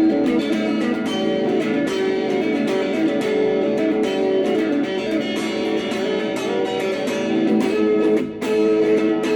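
Guitar music: plucked and strummed strings playing sustained chords, with a brief dip in level about eight seconds in.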